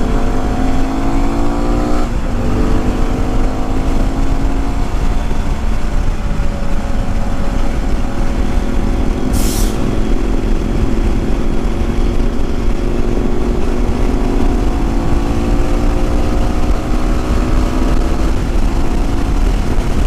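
Yamaha WR250R's single-cylinder engine under way, rising in pitch as it accelerates, dropping with an upshift about two seconds in, then pulling steadily and climbing again. Wind rumbles over the microphone throughout, and there is a brief hiss about halfway through.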